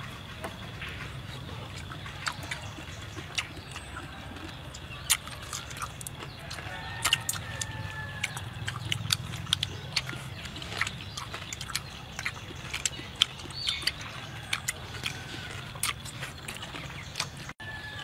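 Eating roasted pig head: scattered sharp crunches and mouth clicks of chewing over a low steady hum, with a few faint clucks from chickens about halfway through and again near the end.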